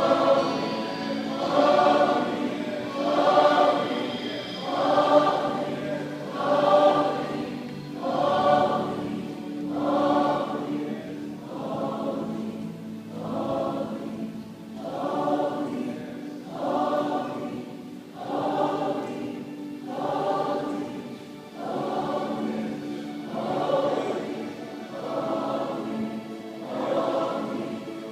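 A choir singing, the voices swelling in a slow, regular pulse about every second and a half over a steady held low note.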